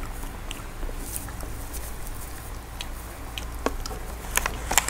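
Close-miked chewing of a soft, chocolate-filled mochi: wet mouth sounds and light smacks, with a few sharper clicks near the end.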